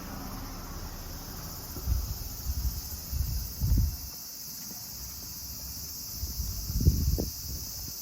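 A steady high-pitched hiss throughout, with bursts of low rumbling thumps about two to four seconds in and again around seven seconds.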